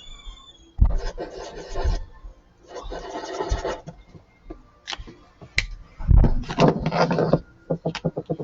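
Felt-tip marker rubbing on paper while colouring in: a couple of longer strokes of about a second each, then a run of shorter, quicker back-and-forth strokes in the second half.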